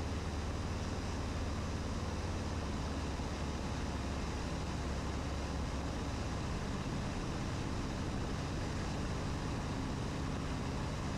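Cessna 150's four-cylinder Continental O-200 engine and propeller droning steadily in level flight, heard from inside the cockpit.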